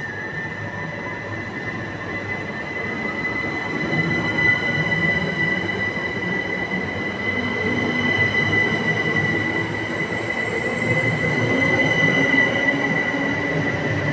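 Train moving slowly with a steady high-pitched wheel squeal held at one pitch over the rumble of its wheels, growing louder around the middle and again near the end.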